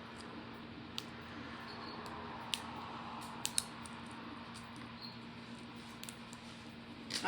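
Quiet room tone with a steady low hum, a few faint sharp clicks and tiny high squeaks; a voice begins right at the end.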